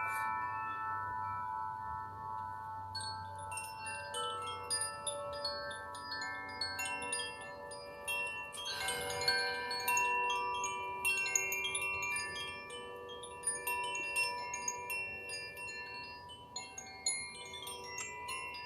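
Chimes ringing, many long overlapping tones at different pitches, with a light high tinkling joining in about three seconds in. A brief rush of noise sounds about halfway through.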